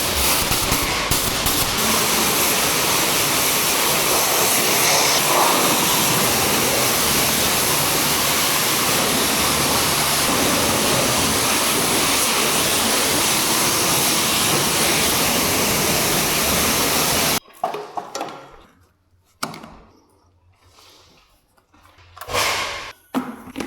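Loud, steady rushing noise from car-detailing equipment running, cutting off abruptly about seventeen seconds in; a few short, quieter knocks and rustles follow.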